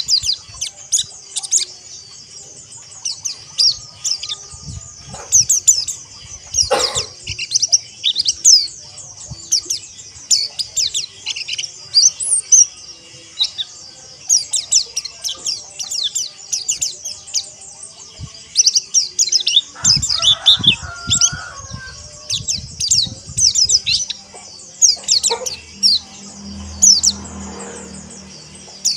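A crowd of white-eyes (pleci) twittering together: dense, rapid, high-pitched chirps and short trills overlapping without pause.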